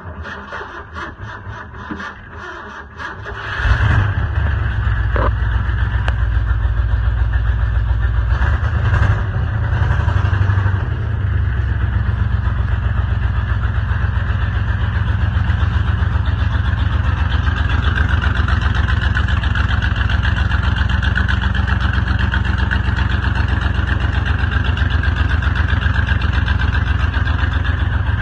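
1976 Ford F-150 engine cold-started at around 30°F: the starter cranks for about four seconds before the engine catches, runs unevenly and faster for several seconds, then settles into a steady idle about twelve seconds in.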